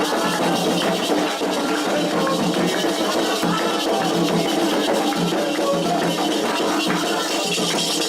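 Candomblé ceremonial music for Xangô: voices singing together over drums and rattling shakers at a steady pace.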